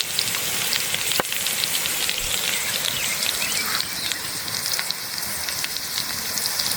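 Food sizzling and crackling as it fries in hot fat: a steady hiss with many small pops.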